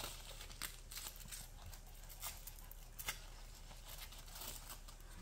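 Faint, intermittent rustling and short scratchy rips from the hook-and-loop straps of a dog knee brace being handled and fastened around a puppy's leg.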